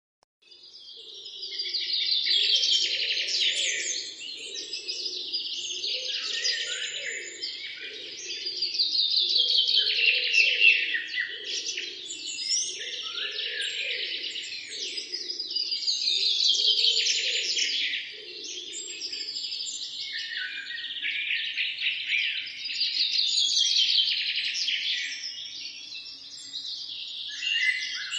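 Birds chirping and singing, many quick calls and trills overlapping into a dense chorus, fading in from silence at the start. A fainter, lower pulsing sound runs beneath it until about two-thirds of the way through.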